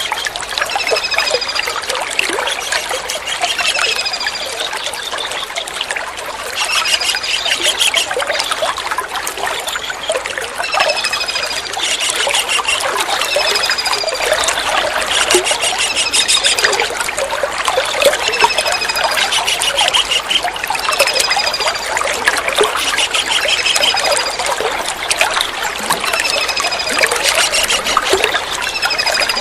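Kingfisher calling: short, high, falling notes repeated every second or two, broken by bursts of fast chattering trills. Steadily trickling water runs underneath the whole time.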